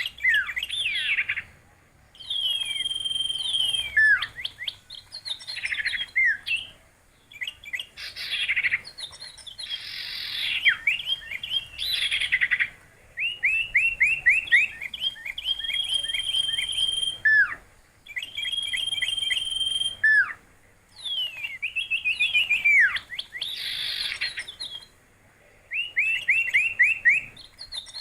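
A songbird singing in varied phrases a few seconds apart, each mixing a quick run of short rising notes, a held steady whistle and sharp falling sweeps, with short pauses between phrases.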